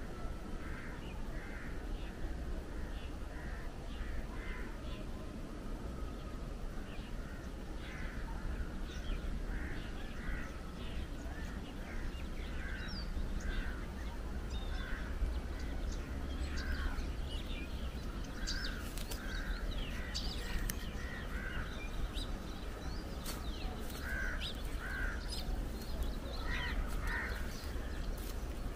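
Birds calling: short notes repeated many times, coming more often in the second half, over a steady low rumble.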